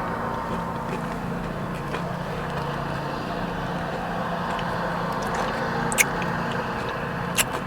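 Steady hum of a car idling, heard from inside the cabin, with two short sharp clicks, one about six seconds in and one near the end.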